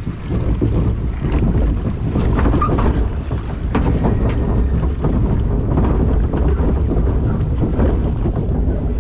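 Rushing water of a river rapids ride with wind buffeting the microphone: a steady, loud, low rumble of noise.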